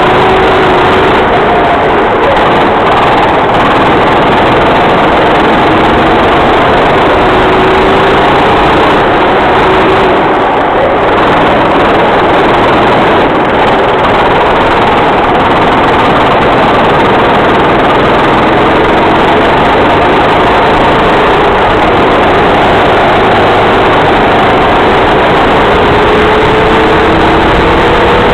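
Small kart engine running hard at racing speed, loud and unbroken, its pitch slowly rising and falling as it accelerates and eases off.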